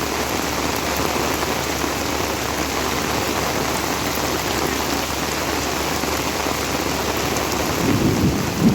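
Heavy rain falling steadily, a dense even hiss with scattered drop ticks. Near the end a brief, louder low sound rises over it.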